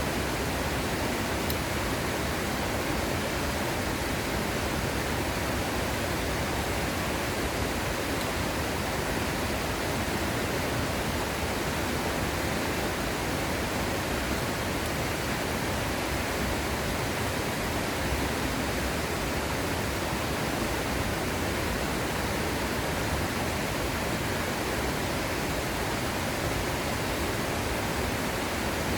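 Waterfall: a steady rush of falling water, an even noise spread from low to high pitch that does not change.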